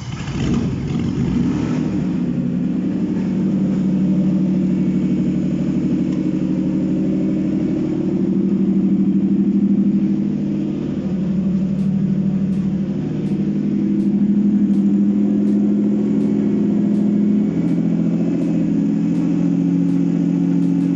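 Toyota 3GR 3.0-litre V6 engine running on a test stand, a used engine being run up to check its condition. It runs steadily at a fairly low speed, with slight swells in engine speed around ten seconds in and again near fifteen seconds.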